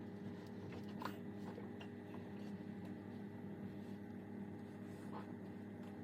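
Faint, steady low hum of room tone, with a few soft clicks about a second in and again near the end.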